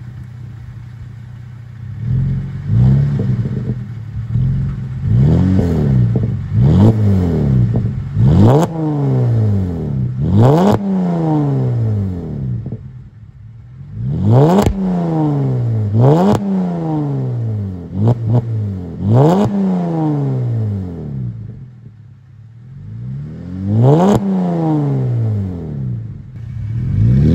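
Holden VZ Commodore SV6's 3.6-litre LY7 Alloytec V6 free-revving through a 2.5-inch Hurricane catback exhaust with centre mufflers, no rear mufflers and high-flow cats. It idles for a couple of seconds, then is blipped about ten times, each rev rising sharply and falling back, with short returns to idle between groups of revs.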